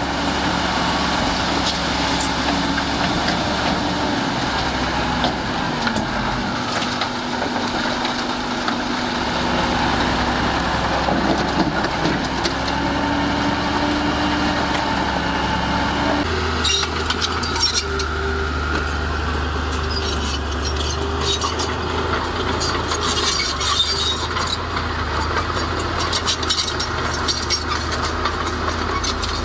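Heavy diesel earthmoving machinery running, with scattered clanks and rattles. The engine sound changes abruptly about sixteen seconds in to a deeper, steadier hum.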